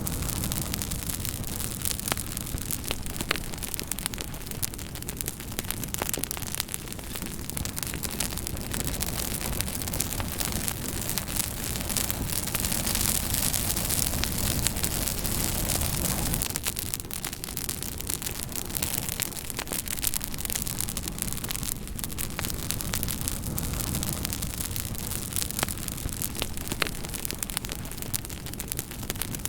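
Campfire burning, with a steady hiss and rumble under frequent sharp crackles and pops from the burning wood. The fire grows louder and denser for a few seconds near the middle.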